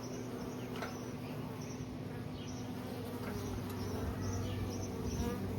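A honeybee swarm of roughly three pounds of bees buzzing, many bees together making a steady hum.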